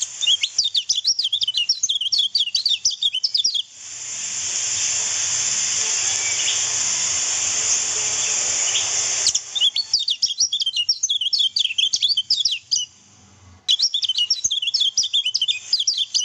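Kecial kuning (white-eye) song: three bursts of rapid, high, chattering chirps. A steady high hiss fills the gap between the first and second bursts.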